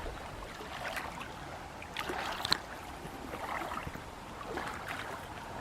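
Small waves lapping against the lake shore, an uneven wash that swells about once a second, with a few small splashes.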